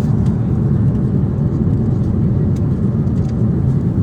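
Steady low rumble of airliner cabin noise inside a Boeing 747-8, with a few faint clicks.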